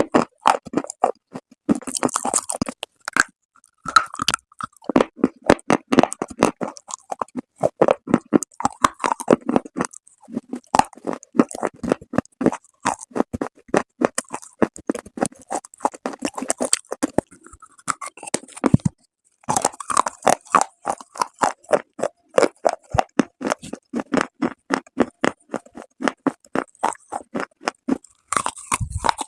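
Close-up chewing of hard, crumbly baked clay: a steady run of sharp crunches, several a second, pausing briefly about two-thirds of the way through.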